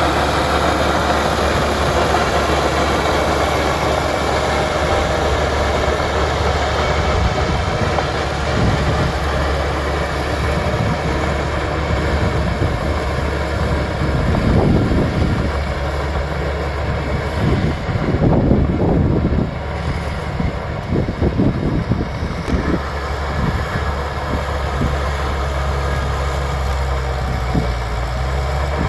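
Bulldozer's diesel engine running steadily, with louder, rougher patches of mechanical noise around the middle.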